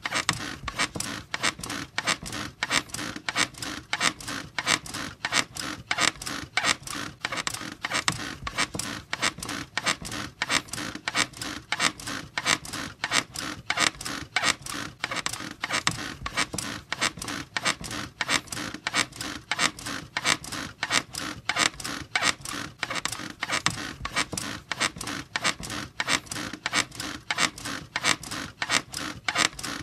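A bed squeaking in a fast, steady rhythm, about two to three creaks a second, with no let-up.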